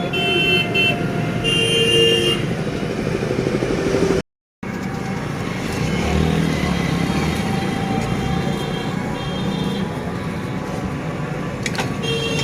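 Street traffic noise with motor vehicles running and horns sounding twice in the first couple of seconds; the sound cuts out completely for a moment about four seconds in.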